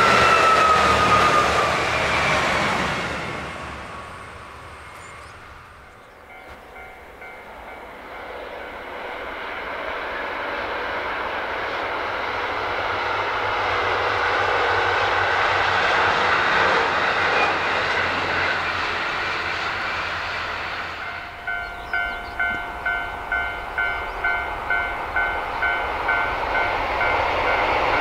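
A train passing, its sound falling in pitch and fading away. Then another train approaches and grows steadily louder. About 21 seconds in, a railway crossing's warning bell starts ringing at about two strokes a second.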